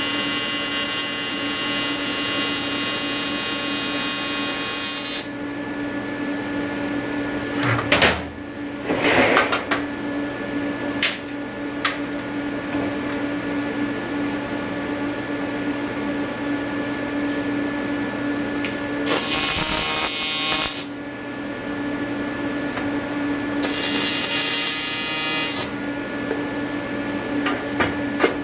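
AC TIG welding arc from an Everlast 325EXT on square wave, buzzing harshly at its 100–150 Hz AC frequency. The arc runs for about five seconds and cuts off, a few clicks and knocks follow, and two short arcs of about two seconds each come later. A steady low hum runs underneath.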